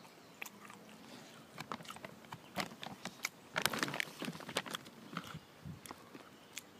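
A person chewing a mouthful of tropical trail mix (dried fruit, banana chips and nuts): irregular crisp crunches, thickest a little past halfway.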